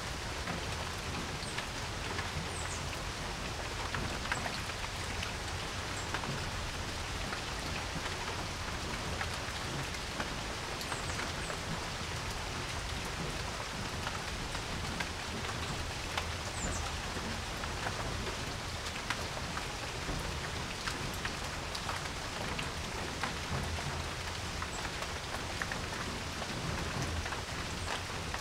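Steady rain falling on a porch, with many single drops ticking through the even hiss of the downpour.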